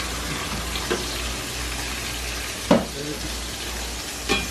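Cornstarch slurry sizzling with a steady hiss as it hits the hot oil among browned chicken thighs in a stainless steel pan. A metal fork clicks against the pan three times, loudest a little under three seconds in.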